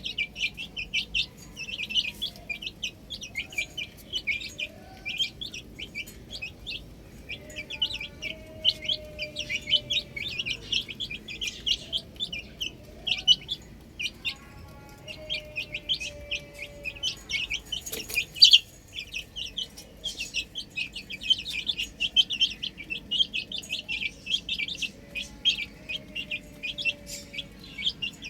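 A flock of domestic chicks peeping continuously, many rapid, short, high calls overlapping, with a few lower, drawn-out falling calls among them. One sharp knock about eighteen seconds in.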